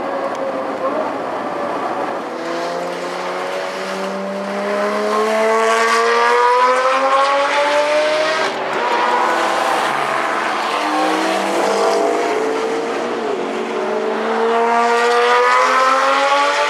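Lamborghini Murciélago LP670-4 SV's V12 engine accelerating hard through the gears. The pitch climbs steadily, drops at upshifts about eight and thirteen seconds in, then climbs again.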